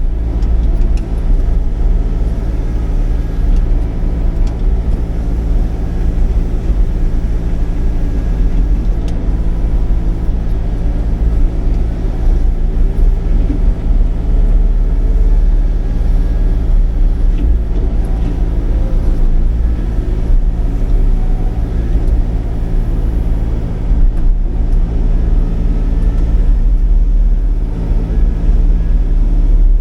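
Sany 35 mini excavator's diesel engine running steadily at working speed, powering a hydraulic mowing head that is cutting grass and brush.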